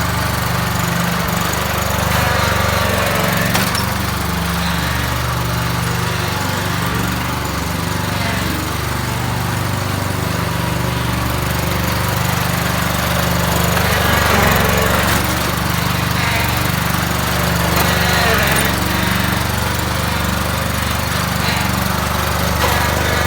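Husqvarna 23 hp lawn tractor engine running steadily under throttle, its pitch shifting a little now and then.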